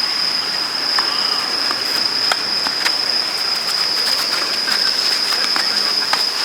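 Steady high-pitched insect drone, with several sharp knocks scattered through it, typical of tennis balls being struck on the court.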